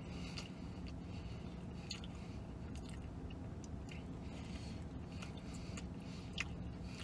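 A man biting into and chewing a McDonald's McRib sandwich, over a steady low hum inside a truck cab.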